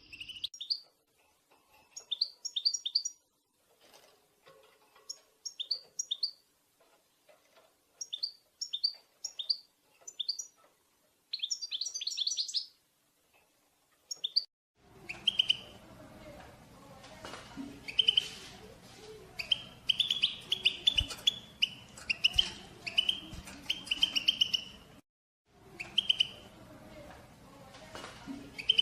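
European goldfinch contact calls: short clusters of quick, high chirps with pauses between them. About halfway the background turns noisier and the chirping runs almost without a break.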